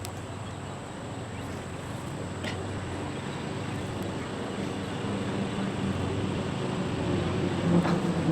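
A steady engine hum that slowly grows louder toward the end, with a few faint clicks.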